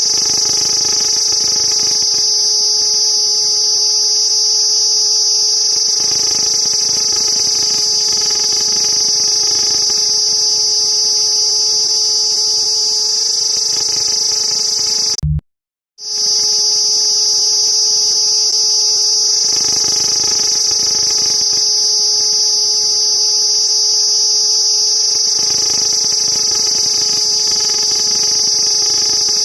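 Cicadas singing: a loud, steady high buzz that drops out to silence for under a second about halfway through, then resumes.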